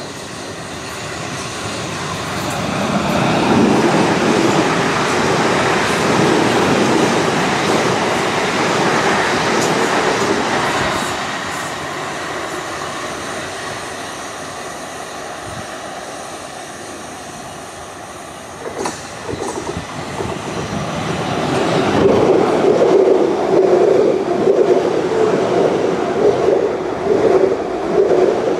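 Electric multiple-unit train running on the track. The rumble swells over the first few seconds and eases off through the middle. It grows loud again in the last third, with sharp clicks of wheels over rail joints.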